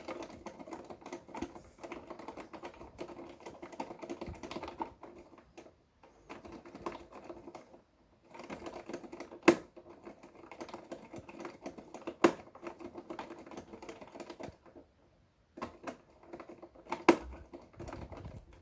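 Electric fan's mechanical push buttons (stop and speed settings) pressed rapidly in a fast, typing-like clatter of clicks, with a low hum underneath. It pauses briefly a few times, and there are three louder clacks.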